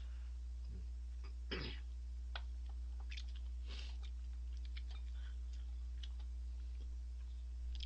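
A person chewing a mouthful of instant ramen noodles close to the microphone, with scattered small clicks and a couple of louder wet mouth noises, over a steady low hum.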